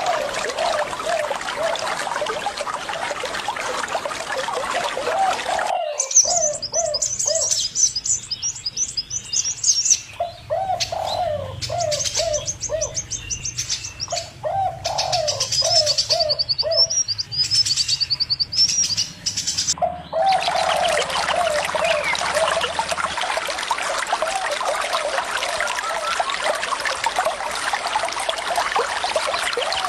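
Running water with doves cooing in short repeated phrases. About six seconds in, the water sound cuts off abruptly, leaving high-pitched chirping from small birds over the cooing. The water returns abruptly near twenty seconds in.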